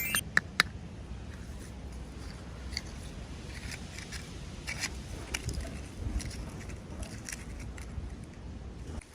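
Small plastic toy packaging being handled and opened by hand: a couple of sharp clicks right at the start, then scattered light ticks, crinkles and scrapes.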